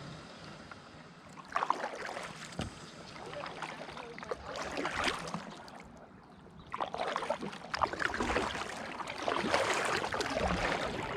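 Kayak paddle strokes: water splashing and dripping off the paddle blades, in two stretches of paddling, from about one and a half seconds in and again from about seven seconds in.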